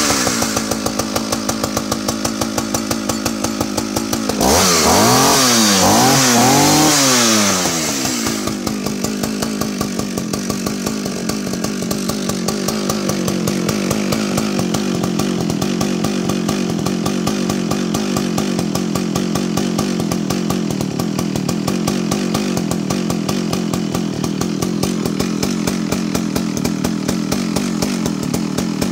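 A vintage Partner R16 55cc two-stroke chainsaw engine running from a cold start on part choke. It revs up and down twice in the first several seconds, then settles into a steady, even idle.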